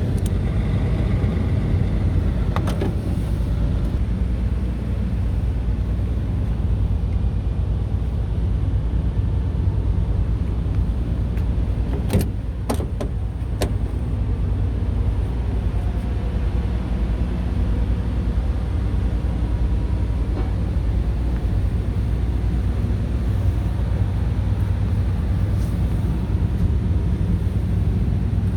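Scania R tractor unit's diesel engine running steadily with a deep, even rumble, with a few sharp clicks about twelve to fourteen seconds in.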